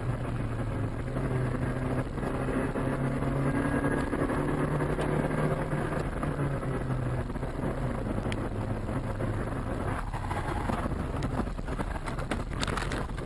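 A car's engine and road noise picked up by a dash camera: a steady low engine hum over a hiss of tyre and wind noise, with a few short knocks near the end.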